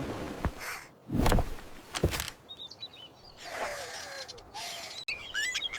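Small birds chirping in short high twitters, with a few brief rushes of noise, the loudest about a second in.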